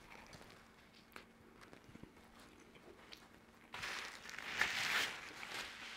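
Faint biting and chewing of a soft burger bun with pulled chicken, with small scattered clicks. About four seconds in, a paper napkin rustles for a second or two as it is handled.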